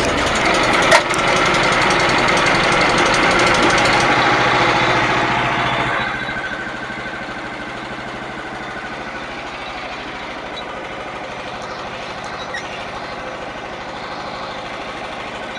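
Small gasoline engine of a Frontier OS27 band sawmill running just after a cold start, loud and rattly at first. About six seconds in it drops to a quieter, steadier idle.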